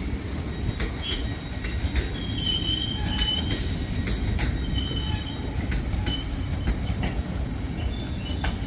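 Class 66 diesel freight train pulling out of the station: a steady low rumble with scattered knocks from the wagons and a few brief high-pitched wheel squeals, about a third of the way in and again about halfway.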